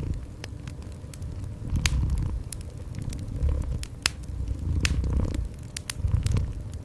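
Cat purring in slow, low swells that rise and fall every second or so, over a wood fire crackling with scattered sharp pops.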